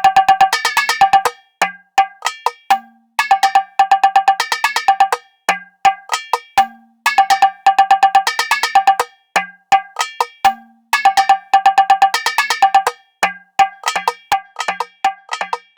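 Finger-drummed electronic drum machine percussion from a Native Instruments Maschine: a pitched, metallic cowbell-like sound hit in fast rolls that repeat in short bursts with brief gaps. Occasional low notes sound underneath.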